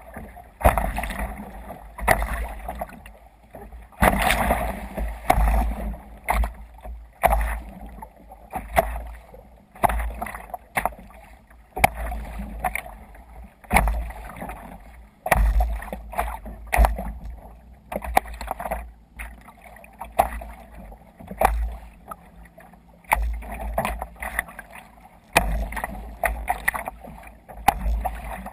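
Water splashing and sloshing against a sea kayak under way in waves, in irregular surges every second or two, with wind rumbling on the microphone.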